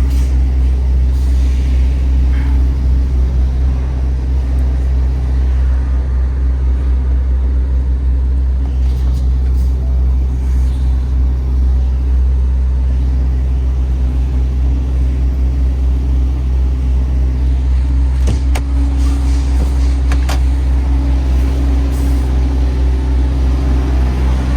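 MAN TGX 18.510 truck's six-cylinder diesel engine idling steadily, an even deep hum, with a couple of light clicks near the end.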